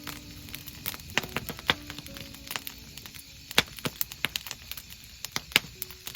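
Wood campfire crackling: irregular sharp pops and snaps, several a second, some louder than others, over a soft steady burn, with faint brief whistling tones underneath.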